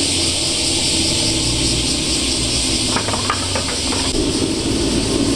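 Car exhaust rumbling at low revs over a steady hiss, with a few short clicks about three seconds in and a stronger engine note building near the end.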